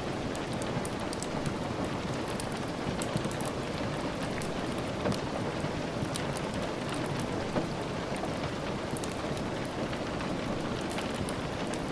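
Steady rain falling, with many small sharp drop ticks and a few slightly louder pops, as of rain tapping on windows.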